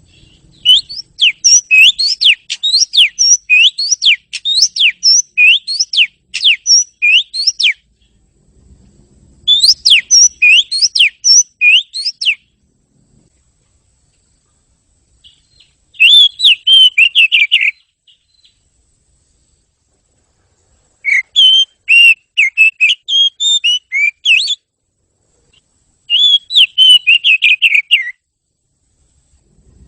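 Oriental magpie-robin (kacer) singing: loud, high whistled song in separate phrases of a few seconds each, with short pauses between them. The first phrase is a fast run of rising and falling notes; later phrases are shorter, quicker warbles.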